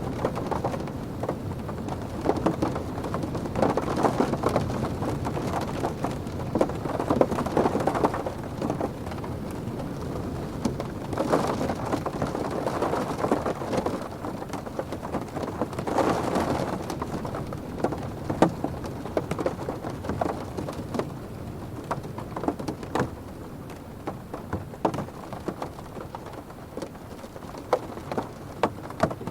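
Rain pattering on a car's roof and windows, heard from inside the car, with many single drops ticking sharply. Gusts of wind swell the rain noise several times, and it eases off toward the end.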